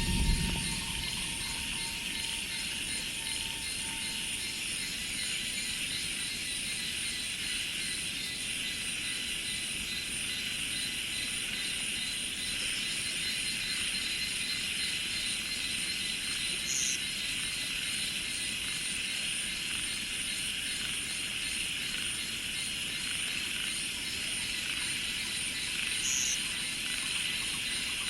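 A steady, dense chorus of cicadas and other insects buzzing in a high, pulsing drone. A low rumble dies away at the very start, and two short high chirps stand out, one about midway and one near the end.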